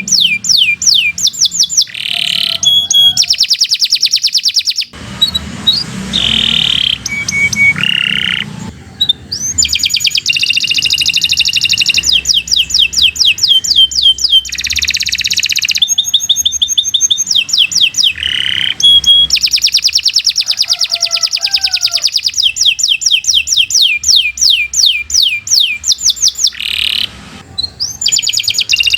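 Domestic canary singing a long unbroken song of rapid trills. Each phrase is a fast run of repeated high notes that switches to another, with a few held whistles and gliding notes in between.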